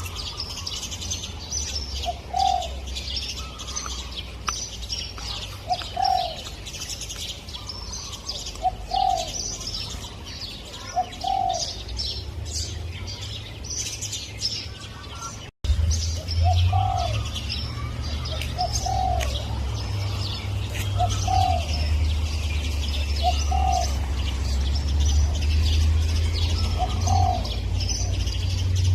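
Spotted dove cooing: short coo notes repeated every two to three seconds, over a busy chorus of small birds chirping and twittering. A steady low rumble runs underneath, and the sound drops out for an instant about halfway through.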